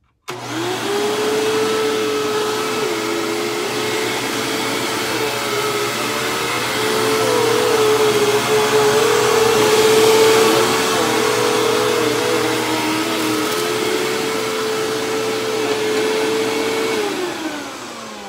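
Hoover WindTunnel Plus upright vacuum switched on, its motor rising quickly to a steady whine as it makes a pass over shredded paper, louder in the middle of the pass. Near the end it is switched off and the whine falls away as the motor winds down.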